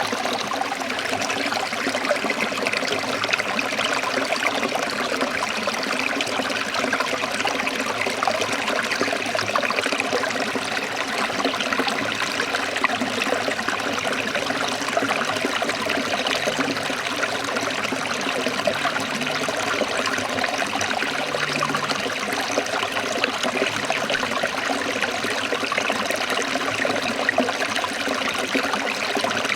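Forest stream of water trickling and running steadily.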